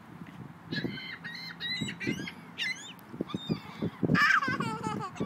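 A bird calling: a run of short pitched calls over the first three seconds, then a louder call about four seconds in, with soft low knocks underneath.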